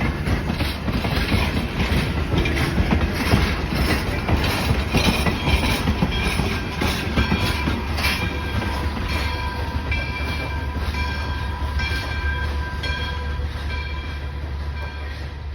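Pennsylvania Railroad No. 643 locomotive and its train pulling out of a station: a steady low rumble with irregular clatter from the rails, and short high squeals through the second half. The sound fades away near the end.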